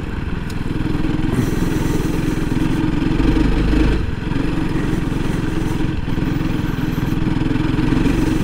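2021 Honda CRF300L Rally's single-cylinder four-stroke engine running steadily as the bike is ridden.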